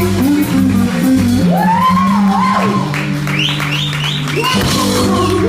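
Live blues band of two electric guitars, bass guitar and drums playing an instrumental passage; a guitar plays bent notes through the middle.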